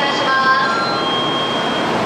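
Steady rushing noise of a Shinkansen train standing at a station platform, with a thin high tone held for about a second near the middle.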